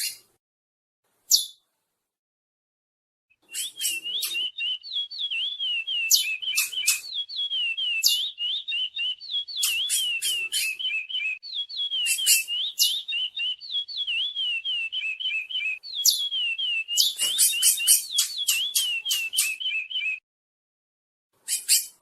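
Chestnut-bellied seed finch (curió) singing: a long, fast warbling song of quick sliding notes, mixed with runs of sharp, high chips. It starts about three and a half seconds in and stops about two seconds before the end, after a single short call about a second in.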